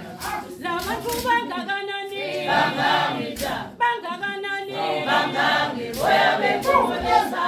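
A group of voices singing together a cappella, with sharp percussive hits scattered between and under the phrases.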